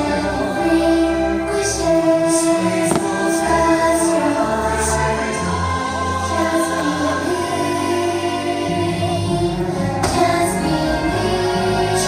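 The show's orchestral finale music with a choir singing sustained notes over park loudspeakers, with a couple of sharp firework bursts about three seconds in and near the end.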